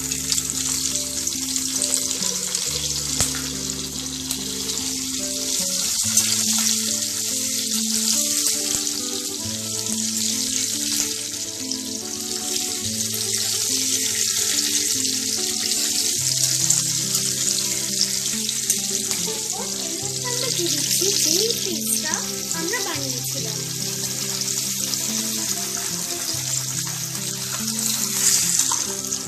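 Chopped green chillies and whole spices sizzling in hot oil in a wok, stirred with a metal spatula, over background music with slow, steady low notes.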